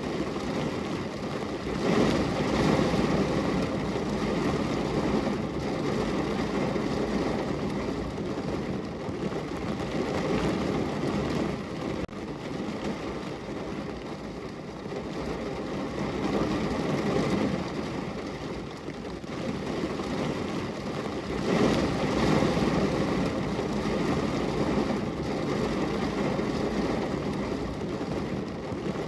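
Steady rain on a window, a dense even patter over a low rumble that swells and eases off four times.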